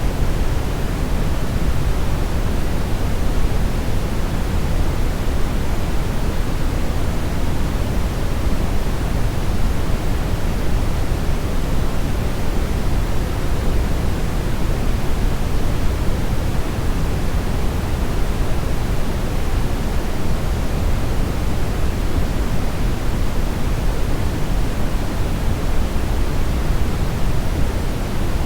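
Steady brownish noise: an even, deep rushing hiss, strongest in the low end and fading toward the highs, with no changes or events.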